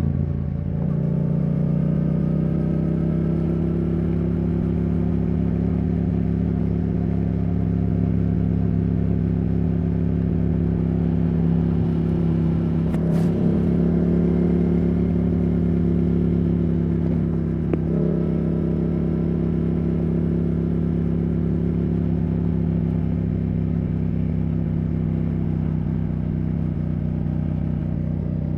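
Yamaha R7's CP2 parallel-twin engine through a Yoshimura R77 exhaust, held at a fairly steady engine speed while riding. There is a brief dip in the note just after the start and a sharp click about 13 seconds in.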